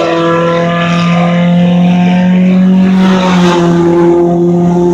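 Compact-class race car engine running hard at a steady high pitch as the car laps the track during qualifying.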